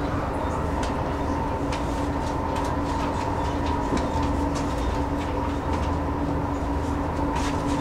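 Electric commuter train running steadily: a constant two-note motor whine over a low rumble, with scattered light clicks from the wheels on the track.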